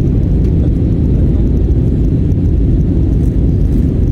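Aeroplane engines heard from the ground as a steady, loud low rumble.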